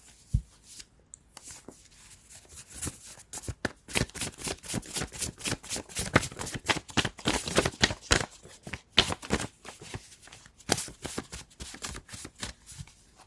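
Tarot cards being shuffled by hand: a rapid, irregular run of card slaps and riffles that starts about a second and a half in and thins out near the end.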